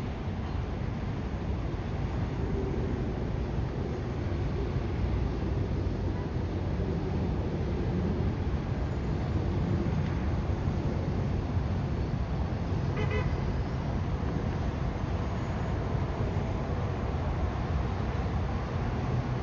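Steady low rumble of city traffic. About 13 s in, a brief high-pitched tone sounds once.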